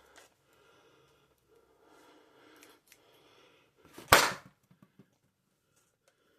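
Latex twisting balloon handled with faint rubbing, then popping once, loud and sharp, about four seconds in.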